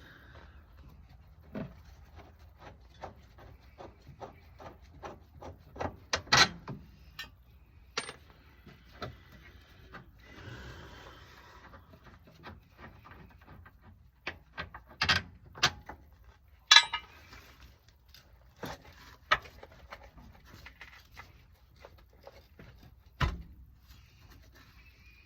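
Hand tools working on bolts under a car: a run of light, evenly spaced clicks, about three a second, then a few separate sharp metal clanks and knocks.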